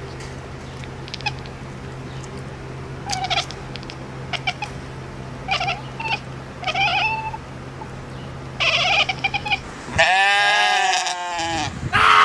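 Cat meowing in a series of short calls over a steady low hum, then a louder, drawn-out yowling call near the end.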